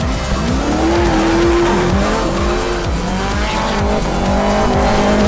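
A vehicle engine revving hard, its pitch rising and falling several times, with tyres squealing during a stunt burnout or drift. Music with a steady beat plays underneath.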